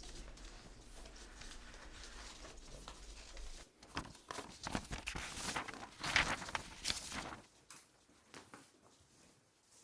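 A few irregular knocks and scuffs over a low hum. The hum cuts off about four seconds in.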